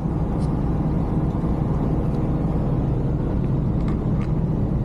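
Vehicle engine running with a steady low rumble, with a few faint ticks.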